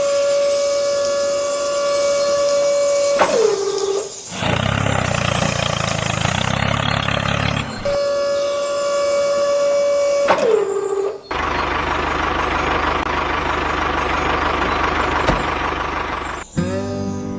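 Vehicle sound effects: twice, a steady horn-like tone is held for a few seconds and sags in pitch as it dies away. Each time it gives way to a few seconds of noisy, engine-like rumble. Music starts right at the end.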